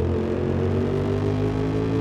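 Yamaha MT-07's parallel-twin engine pulling steadily under throttle, its pitch rising slowly as the bike accelerates.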